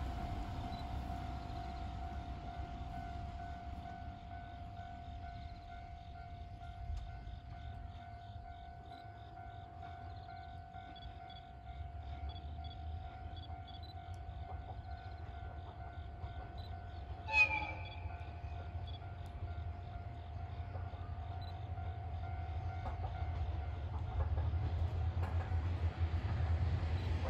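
Aizu Railway diesel railcar train approaching, a low rumble that grows louder toward the end, with one short horn blast about seventeen seconds in. A steady high tone with faint regular ticks runs underneath.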